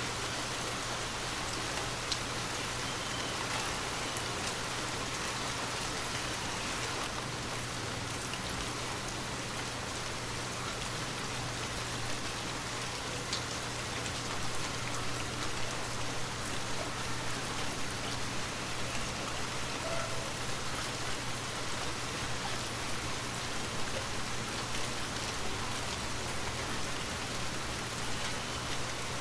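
Steady rain falling, with individual drops ticking now and then and the patter growing a little heavier and more uneven about halfway through. A steady low hum lies underneath.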